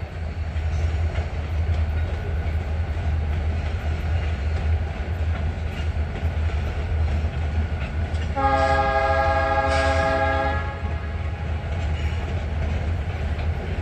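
Train running past with a steady low rumble, its locomotive horn sounding one long blast of about two seconds a little past the middle.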